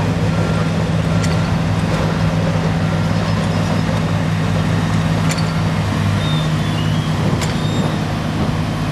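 Heavy diesel engine of earthmoving machinery running steadily at a constant speed, with a few faint clicks over it.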